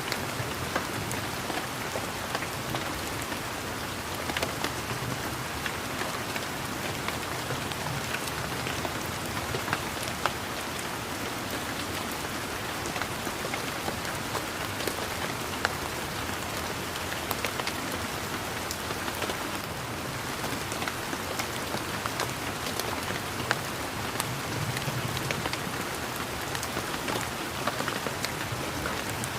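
Steady rain falling, with many individual raindrops tapping sharply close by.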